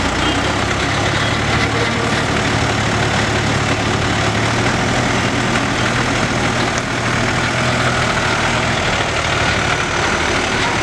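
The Willys military truck's four-cylinder diesel engine running steadily, with a low, even drone.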